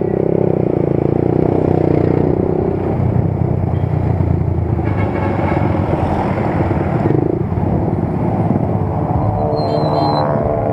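Motorcycle engine running steadily while riding. A higher engine note comes in near the end.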